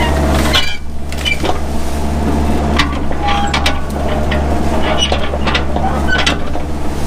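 Mini excavator's engine running steadily while clearing brush, with many scattered sharp cracks and knocks over it.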